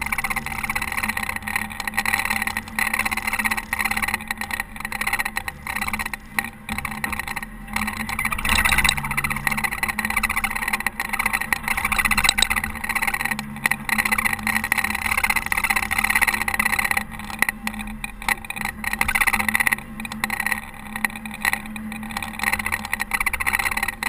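Caterpillar TH330B telehandler's diesel engine running steadily under load while it plows snow, mixed with a constant rushing hiss.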